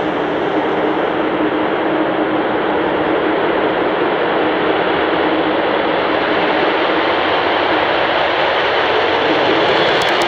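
Avro Vulcan bomber's four Rolls-Royce Olympus turbojets running at takeoff power: a loud, steady jet roar with a constant tone underneath, growing slightly louder, with a crackle coming in near the end.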